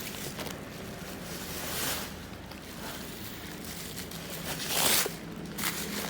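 Laptop packaging being handled and unwrapped: intermittent rustling swishes of plastic and cardboard, the loudest about five seconds in, over a faint steady hum.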